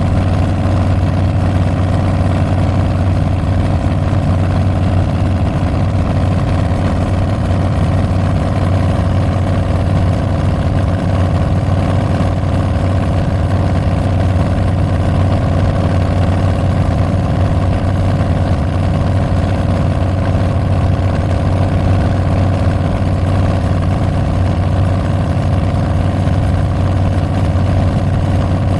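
Harley-Davidson Milwaukee-Eight 114 V-twin running through Tabs Performance slip-on mufflers with Zombie baffles. It holds a steady, unchanging engine speed with a deep, even note.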